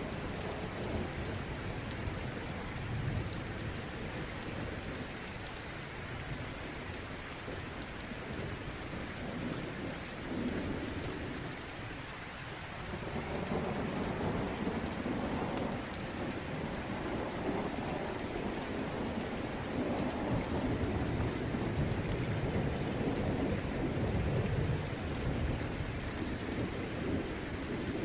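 Steady rain with low rolling thunder that swells and fades several times, louder through the second half.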